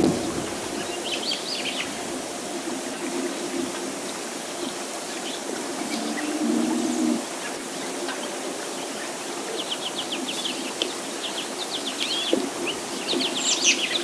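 Small birds chirping in quick series of short high notes, a few about a second in and rapid runs near the end, over a steady low hum.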